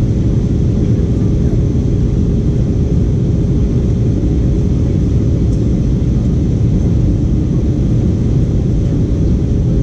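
Steady cabin noise of an Airbus A320-232 in flight: a loud, even rumble of engines and airflow, with a faint steady hum on top.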